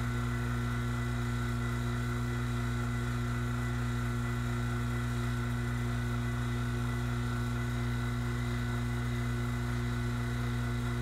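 HVAC vacuum pump running steadily, a constant hum, while it pulls a refrigerant system down to a deep vacuum of around 11 to 16 microns.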